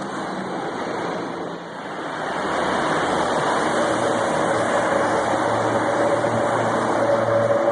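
Traffic noise that swells as it moves into a road tunnel, with a car engine echoing off the walls. Over the second half a Ferrari 599 GTO's V12 engine note climbs slowly in pitch as it passes close by.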